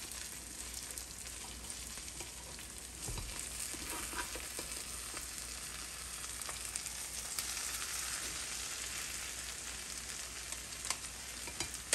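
Egg omelette with peppers, tomato and cheese sizzling steadily in a nonstick frying pan, with a few light clicks of the spatula against the pan as it is worked under the omelette.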